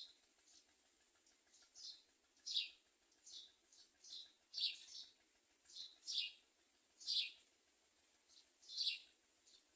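A bird's short, high chirps, a dozen or so, each sliding down in pitch, repeated at uneven intervals.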